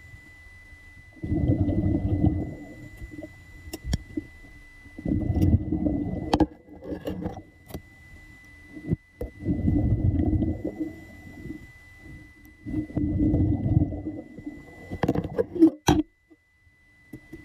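Muffled, low rushing surges of seawater, one about every three to four seconds, with a faint steady high whine underneath and a few sharp clicks.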